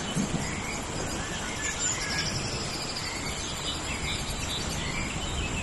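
Steady rain falling in a tropical rainforest, a constant hiss, with scattered bird chirps and a steady high insect drone.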